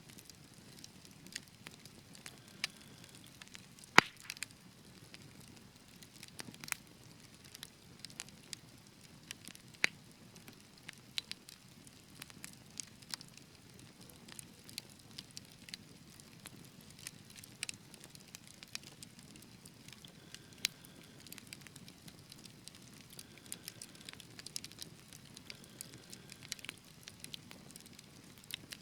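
Wood fire crackling in a fireplace: irregular sharp pops and snaps over a soft low rumble, with one louder pop about four seconds in.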